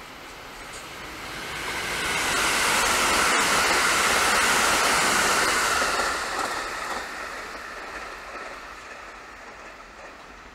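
An electric train passing on the tracks: a steady rushing rolling noise swells over a couple of seconds, holds, then fades away, with one sharp click about three seconds in.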